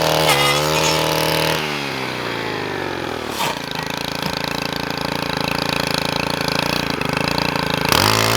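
Small petrol engine of a handheld cutting tool used on willow brush. It runs at high revs, drops to idle about two seconds in, idles steadily, then revs back up near the end.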